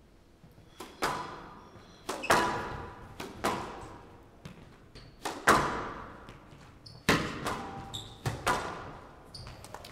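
Squash rally: the ball cracking off rackets and the court walls, about a dozen sharp hits at irregular intervals of half a second to a second, each ringing on with echo.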